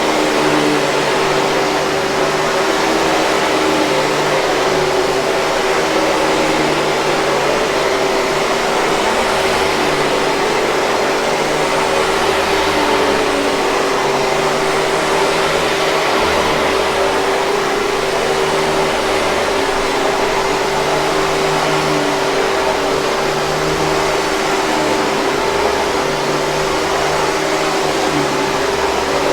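Hoover 5000 Series canister vacuum cleaner running steadily: a constant motor whine over an even rush of airflow, with no change in pitch or level.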